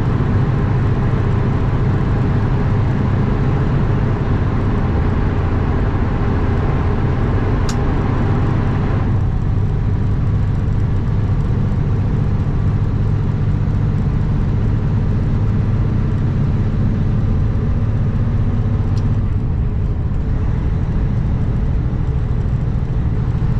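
Kenworth W900 semi truck's diesel engine droning steadily under way, with road and wind hiss. The hiss eases about nine seconds in, and there are two short clicks, one about a third of the way through and one near the end.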